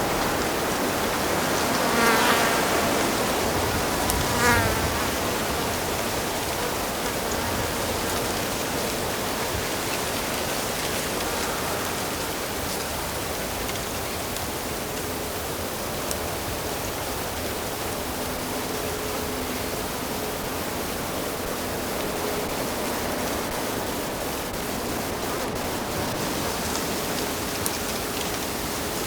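Steady rush of a forest stream, with a flying insect buzzing close past twice in the first few seconds.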